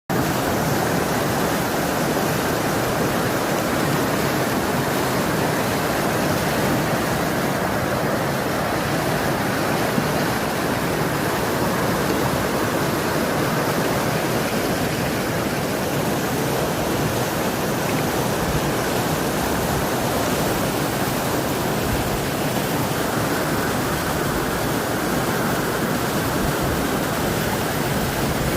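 Flooded river's fast, high water rushing in a steady, even wash of noise that does not change.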